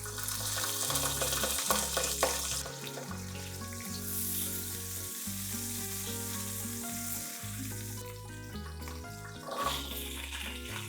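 Food sizzling in hot oil in a frying pan, loudest in the first couple of seconds and then settling to a steadier sizzle, with a few light clicks early on.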